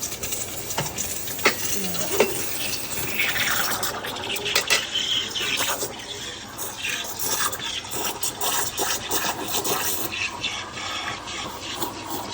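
Espresso machine dispensing coffee, liquid running and filling a cup, with a few sharp clinks in the first couple of seconds.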